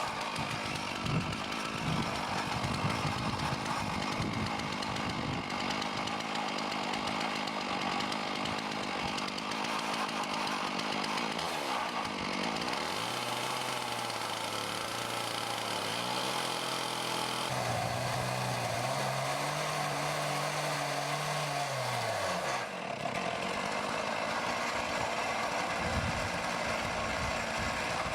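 Chainsaw on an Alaskan chainsaw mill running steadily while ripping a slab lengthwise from a maple log. Partway through, a lower hum comes in and holds, then slides down in pitch and fades as the load on the saw changes.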